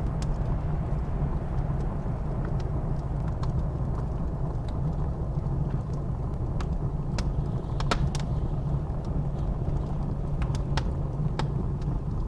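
Wood fire crackling in a fireplace, scattered sharp pops and snaps with a small cluster about eight seconds in, over the steady low rumble of blizzard wind.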